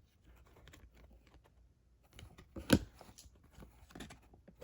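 Trading cards being handled and flipped through in the hand, a run of faint light clicks and slides with one sharper snap of a card about two and a half seconds in.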